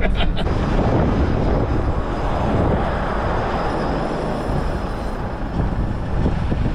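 Steady rumble and hiss of a car on the move: road and wind noise.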